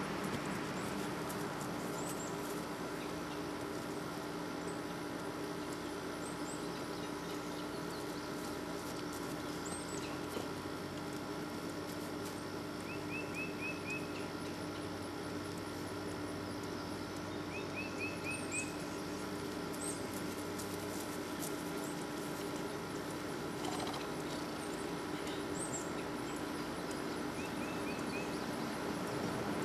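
Birds chirping: a short, quick trill of about five notes comes three times, with scattered thin high chirps in between, over a steady background hiss.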